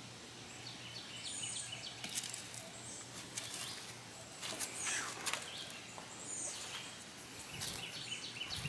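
Birds chirping in short, high repeated calls over quiet outdoor background noise, with a few brief faint knocks scattered through the middle.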